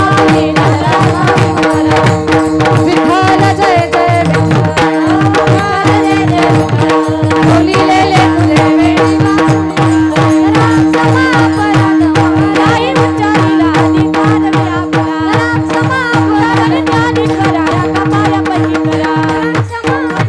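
Devotional kirtan music: voices singing over a steady held drone, with fast, continuous hand-drum strokes.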